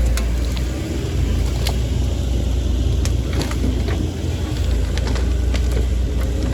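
Heavy diesel machine engine running steadily with a deep rumble, with scattered sharp cracks and snaps of wood over it.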